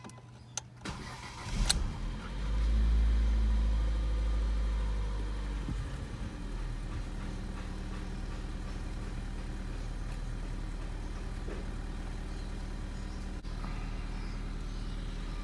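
2017 Ford Fiesta's engine started from cold: a couple of clicks, a second of starter cranking, then it catches about two seconds in, runs up louder for a few seconds and settles to a steady idle around 1000 rpm. This is the first start after the throttle body cleaning and battery reconnection, to check the idle.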